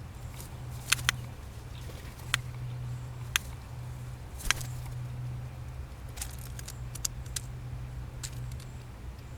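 Blue jay giving sharp, dry single clicks at irregular intervals, about ten in all, the loudest about halfway through, over a steady low hum.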